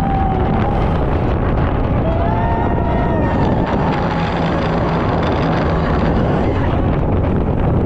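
A 900-horsepower speedboat running at speed: a steady, loud engine drone mixed with wind buffeting the microphone.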